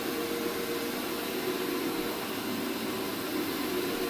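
Counter-rotating brush (CRB) carpet scrubbing machine running steadily over carpet, a constant machine noise with a steady hum, as it scrubs encapsulant into the pile.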